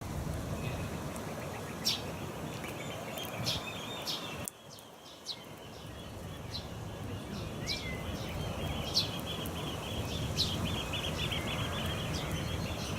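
Small songbirds chirping and twittering: a fast, high chittering run with sharp single chirps every second or two, over a steady low rumble of background noise. The rumble drops out briefly at about four and a half seconds.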